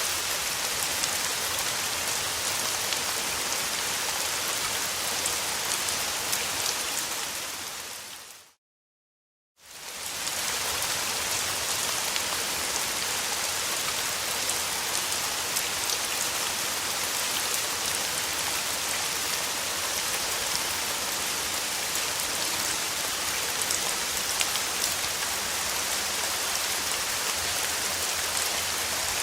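Steady rain falling, a dense even hiss with fine scattered drop ticks. About eight seconds in it fades out to silence for about a second, then fades back in.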